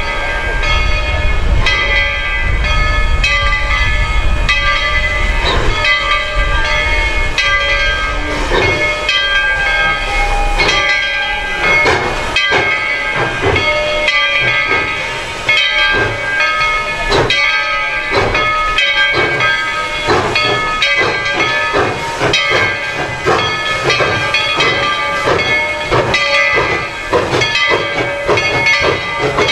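Narrow-gauge steam locomotive working: steam hissing and repeated exhaust chuffs that come quicker in the second half, over a low rumble in the first third. Several steady ringing tones run throughout.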